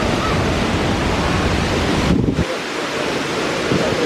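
Steady rushing of a waterfall, a dense even roar of water. About two seconds in it changes abruptly, as at a cut, and carries on with less low rumble.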